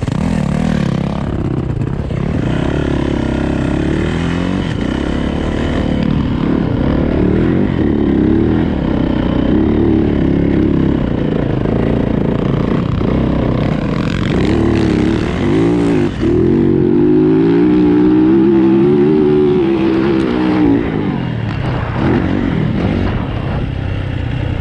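Yamaha YZ450 four-stroke single-cylinder dirt bike engine under riding load in third gear, the revs rising and falling again and again, with a brief drop in revs about two-thirds of the way through.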